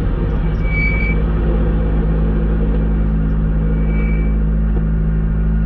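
Renault Clio Rally4's 1.3-litre turbocharged four-cylinder engine running steadily at low revs, heard from inside the bare rally cabin. Two short high beeps sound about a second in and again about four seconds in.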